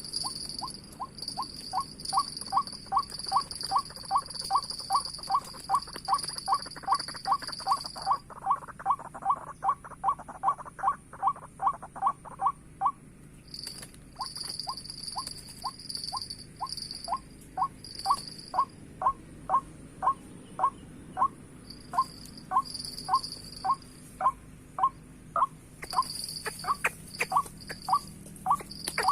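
White-breasted waterhen calling: a long run of short, sharp notes at about four a second. The run breaks off briefly about halfway through, then resumes a little slower. Insects whine high and steadily behind it, with gaps.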